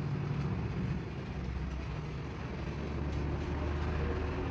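An engine running steadily, a low, even drone that holds without a break.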